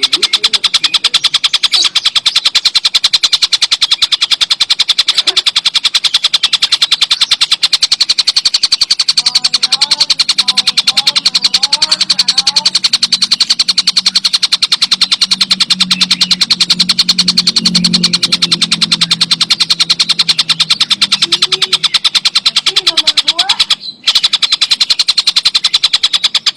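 Tengkek buto kingfisher calling in a loud, very fast rattling trill, repeated without pause and broken briefly near the end. A few short, quieter gliding chirps come in around the middle.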